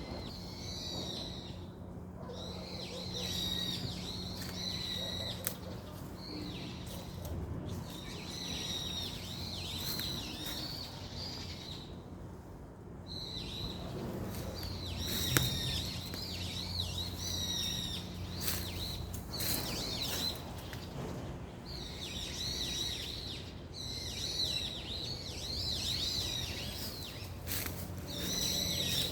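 Small birds chirping and twittering, many short high calls overlapping almost without pause, over a steady low hum, with one sharp click about halfway through.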